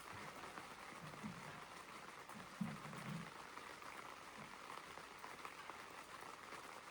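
Faint steady patter of rain on tent fabric, with a faint low thump about two and a half seconds in.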